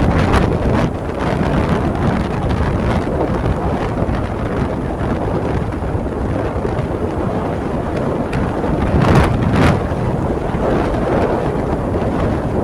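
Wind buffeting the microphone while riding, a steady low rumble with a louder gust about nine seconds in.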